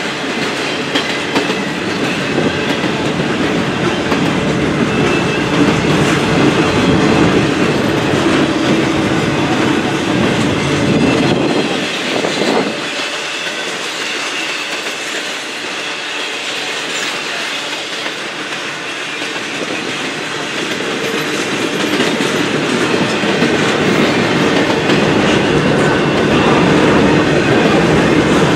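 Freight train cars rolling past close by, wheels clattering over the rail joints in a continuous clickety-clack. The rumble eases about halfway through, then builds up again toward the end.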